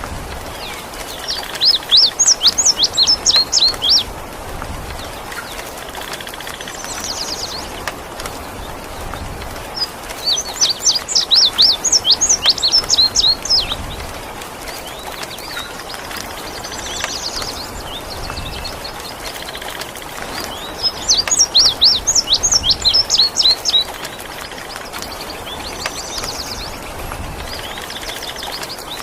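Indigo bunting singing three times. Each song is a quick run of high, sweeping notes lasting two to three seconds, heard over a steady hiss of rain.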